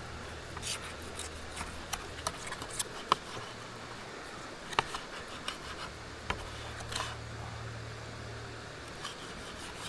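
Knife and fork cutting into a cooked steak, with scattered small clicks and short scrapes of the utensils over a low steady hum.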